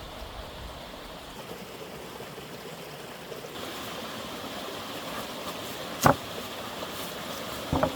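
Steady rushing background noise, with two sharp knocks: a loud one about six seconds in and a smaller one near the end.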